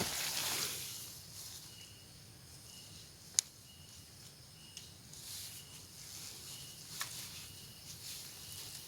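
Outdoor rustling with two sharp clicks, a few seconds apart, over a short high chirp that repeats about once a second.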